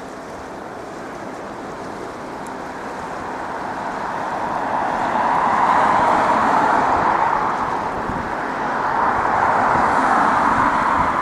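Boeing 777-200's jet engines on landing approach: a steady roar that grows much louder over the first five seconds or so, eases briefly, then swells again near the end.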